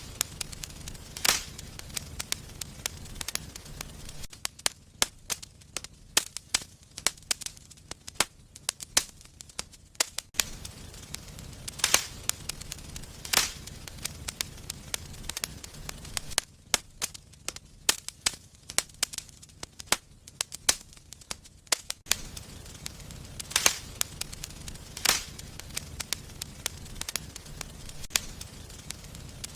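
Wood fire in a fireplace crackling, with frequent irregular sharp pops and snaps. A low rumbling hiss underneath drops away for several seconds twice.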